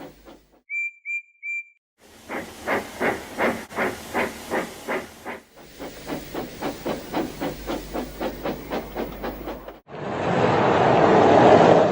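Steam locomotive: three short high whistle peeps, then the engine puffing along in a steady rhythm of about three to four chuffs a second that gradually quickens and softens, ending in a loud rush of escaping steam near the end.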